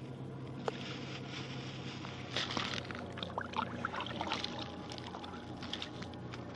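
Water splashing and plopping in an ice-fishing hole, a cluster of short plops and clicks about two seconds in, as groundbait is dropped into the hole, over a steady low hum.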